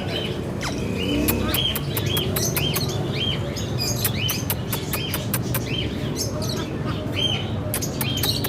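Indian ringneck parakeet chirping, short arched calls repeated about two to three times a second, mixed with sharp clicks over a steady low hum.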